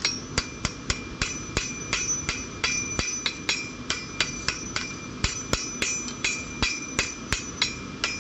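Hand hammer striking a hot knife blade on an anvil in a steady rhythm, about two to three blows a second, each with a short high metallic ring: the blade is being straightened and its bevel forged.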